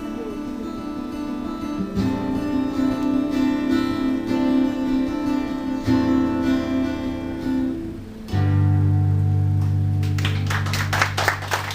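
Acoustic guitar playing the closing chords of a song, changing chord about every few seconds and ending on a loud held final chord about eight seconds in. Audience clapping starts near the end.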